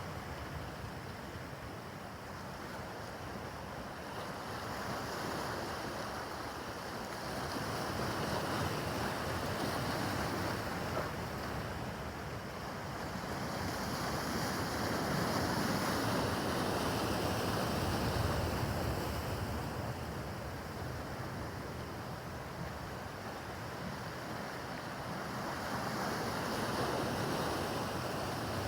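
Rough harbor water: waves washing in with wind on the microphone, the noise swelling and easing every several seconds.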